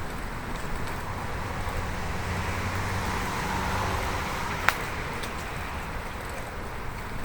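A car passing the bicycle: engine hum and tyre noise swell to a peak about four seconds in, then fade, over steady road and wind noise from the ride. A single sharp click comes just after the car's loudest point.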